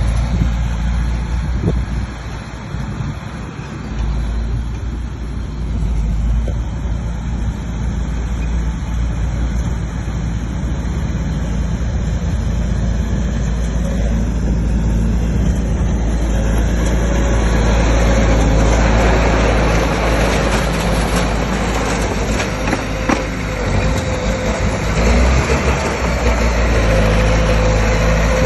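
Bulldozer's heavy diesel engine running steadily, growing louder and harsher a little past halfway, with a few scattered clanks near the end.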